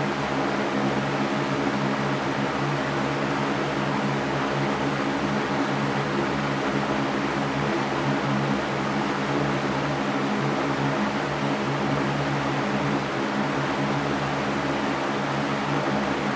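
Electric fan running steadily: an even rush of moving air with a constant low hum from the motor beneath it.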